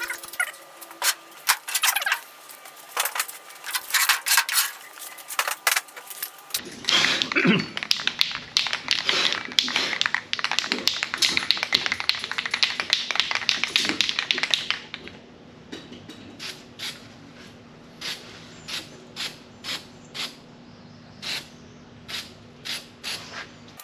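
Hand-tool work on car body sheet metal: irregular clicks and knocks, then a stretch of dense clattering, then a steady run of single clicks about two a second.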